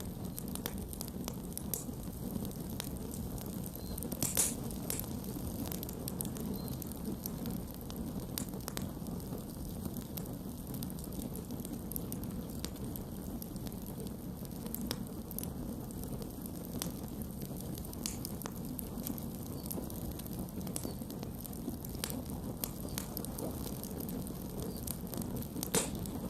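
Campfire burning with a steady low rumble and scattered crackles and pops from the wood, one louder pop about four seconds in and another near the end.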